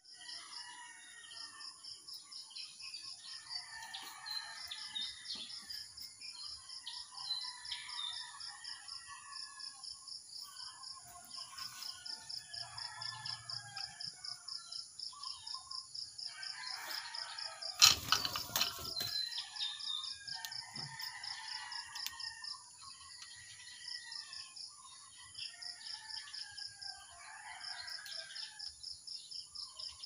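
Birds chirping and twittering throughout, over a steady high-pitched pulsing trill. About 18 seconds in comes a single loud thump.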